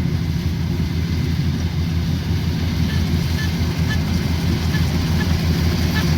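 Kubota combine harvester's diesel engine running steadily under load, a loud, low, rapidly pulsing drone.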